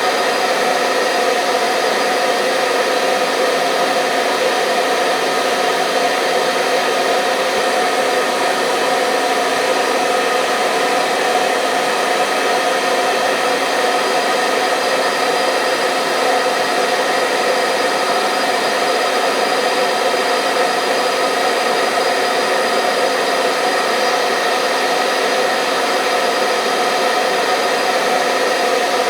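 Hair dryer blowing continuously, a steady even whoosh with a faint fixed hum of tones in it, played as white noise to lull a baby to sleep.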